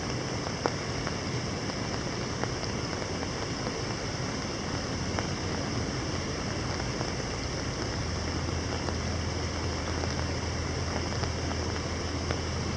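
Summer rain falling steadily onto canal water, an even patter with a few sharper single drop clicks. A low, steady hum of the distant city comes in about eight seconds in.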